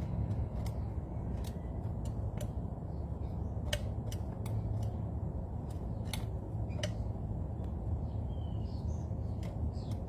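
Irregular sharp clicks, roughly one a second, over a steady low rumble, with a few short bird calls near the end.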